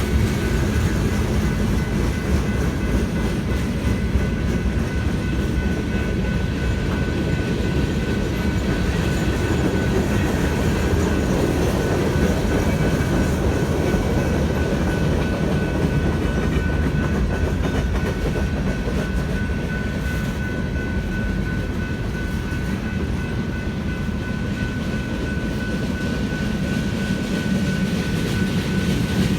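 Freight cars of a manifest train rolling through a grade crossing: a steady rumble with wheel clatter over the rails. The crossing's electronic bell rings throughout, heard as a faint steady high tone above the rumble.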